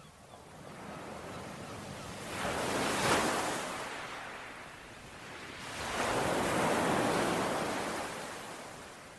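Ocean surf washing onto a shore in two swells: a wave breaks about three seconds in, and a longer one rises and fades from about six to eight seconds in.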